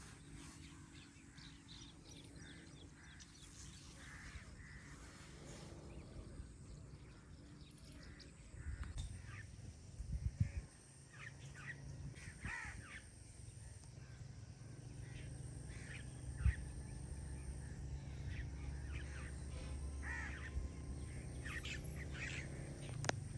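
Birds calling over and over in short harsh calls, with a low rumble that comes in about a third of the way through and two sharp thumps.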